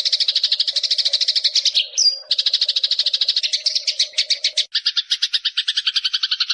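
Eurasian tree sparrow chattering: a fast, even run of short chirps at about a dozen a second, broken briefly just after two seconds. About three-quarters through, the chirps change to a lower, two-toned pattern.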